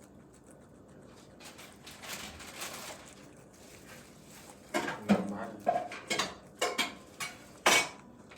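Pet pig making a run of short grunts mixed with sharp clicks and knocks, starting about halfway through after a few seconds of soft rustling.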